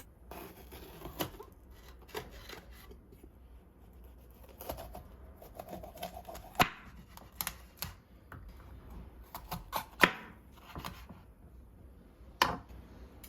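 Irregular light clicks and knocks of small objects being handled, with a few sharper ones about halfway through, near the end, and shortly before it, over a low steady room hum.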